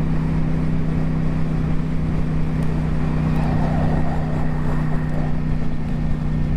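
Ducati Streetfighter V4's V4 engine running at a steady, unchanging pitch, with a constant hiss of wind and road noise over it.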